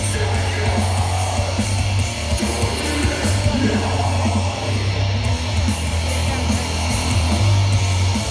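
A death metal band playing live: loud distorted electric guitars over a heavy, steady bass.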